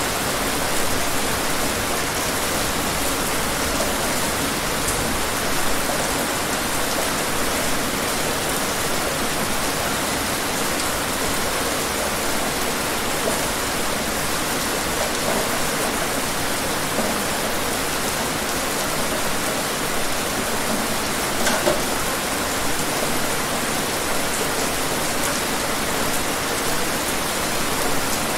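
Steady rain falling: an even hiss with the odd louder drop standing out.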